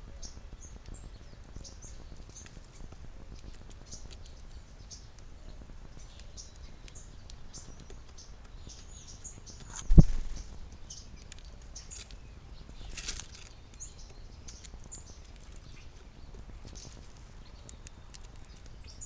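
Small backyard birds chirping, with many short high calls throughout. A single sharp knock about halfway through is the loudest sound, and a brief rushing flutter follows a few seconds later.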